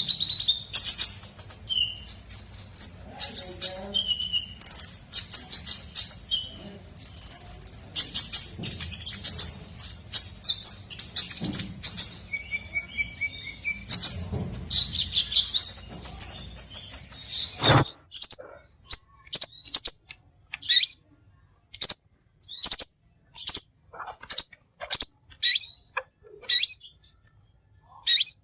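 Sunbird ('kolibri') singing a fast, high twittering song of chirps and trills. About two-thirds of the way in the sound changes abruptly to a cleaner recording of short, sharp chirps repeated about twice a second.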